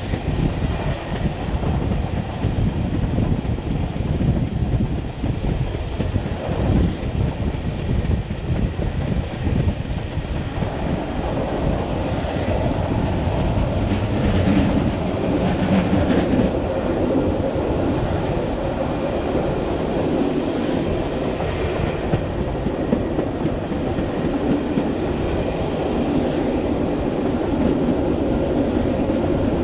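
Metre-gauge Matterhorn Gotthard Bahn regional train running along the line, a steady rumble of wheels on rail with clickety-clack. About a third of the way in the rumble grows fuller, and a brief thin squeal sounds about halfway.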